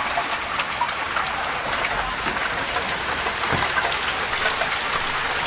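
Heavy thunderstorm rain falling steadily: a dense hiss with many small drop ticks.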